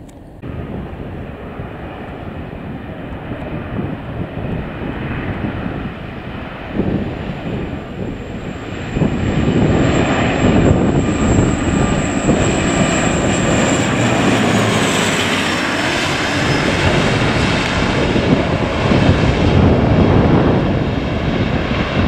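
Jet airliner on landing approach passing low overhead: engine noise swells and grows louder about nine seconds in, with a thin high whine that drops in pitch about fifteen seconds in as the plane goes past.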